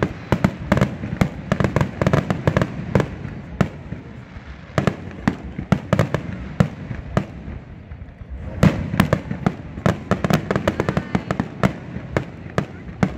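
Aerial firework shells bursting in a rapid finale barrage, many sharp bangs in quick succession. The bangs thin out a little around the middle and come thick and fast again about two-thirds of the way in.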